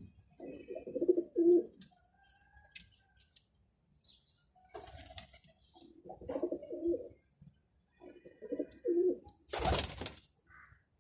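Domestic pigeons cooing in three low, warbling bouts, with a short loud burst of noise near the end.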